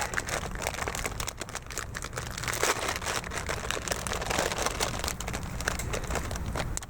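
Plastic packaging crinkling and rustling continuously as it is handled and pulled open, with dense irregular crackles.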